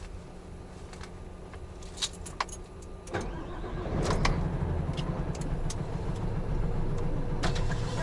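Large truck's diesel engine starting about three seconds in, then running with a louder low rumble, over a few scattered clicks.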